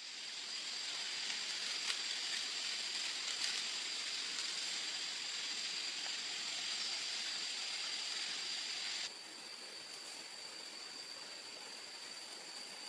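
Steady jungle ambience: an even hiss like running water or rain, with a constant high-pitched tone over it. The level drops abruptly about nine seconds in.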